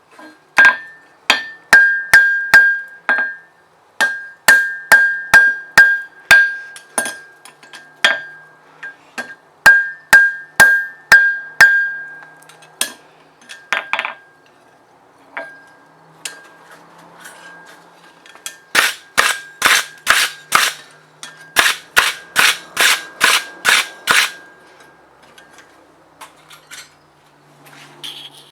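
Hand hammer striking steel on an anvil during blacksmith forging, each blow ringing with a high metallic tone. Blows come in irregular groups of two to three a second, then thin out to a few scattered strikes. Near the end a fast, steady run of about fifteen blows follows.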